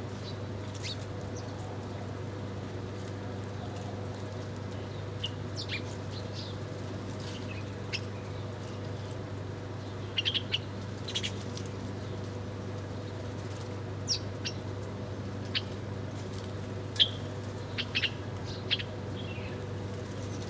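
Small birds giving short, scattered chirps, several in quick clusters, over a steady low hum.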